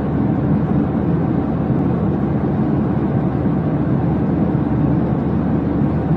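A steady, loud, low rumbling noise with no breaks.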